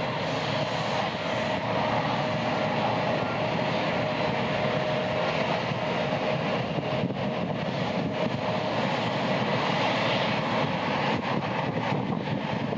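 A Boeing 787-8 Dreamliner's Rolls-Royce Trent 1000 jet engines running, heard as a steady, even rush of jet noise with a faint constant whine.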